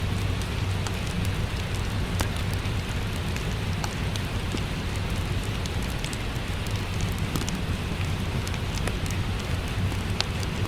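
Steady rain with a low rumble, mixed with a wood fire crackling: sharp, irregular pops scattered throughout.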